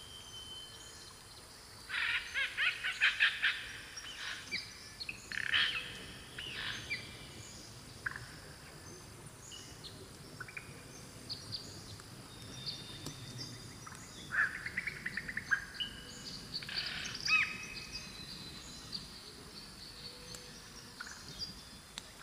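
Several wild birds calling in a forest: loud bursts of rapid chirping trills about two seconds in, again around five to six seconds, and twice in the second half, with scattered single chirps and short whistles in between.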